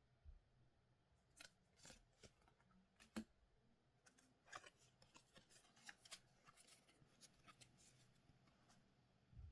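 Faint handling noise from opening Goddess Story trading card packs: scattered light clicks and short crinkles, coming thicker between about four and eight seconds in.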